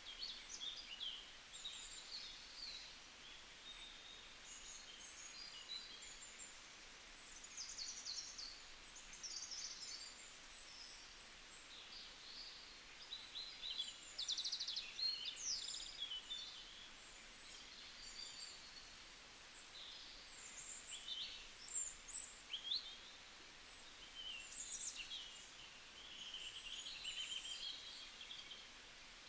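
Several small birds chirping and trilling in quick, high-pitched phrases, with a faint steady background hiss.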